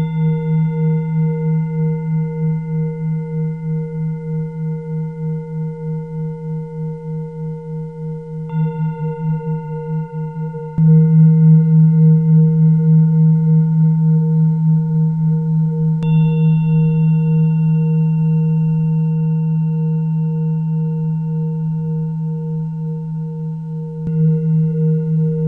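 Singing bowls ringing with a deep, long hum that pulses in a slow wobble. They are struck again about 8 seconds in, louder near 11 seconds, and again around 16 and 24 seconds, each strike adding brighter overtones that slowly die away.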